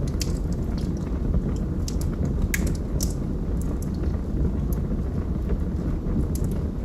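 Log fire burning with a steady low rumble and irregular sharp crackles and pops from the burning wood.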